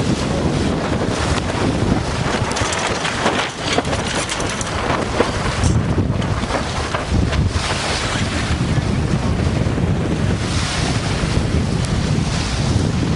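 Wind buffeting the microphone over waves and water rushing along a sailing yacht's hull, a steady rush with frequent brief swells and splashes.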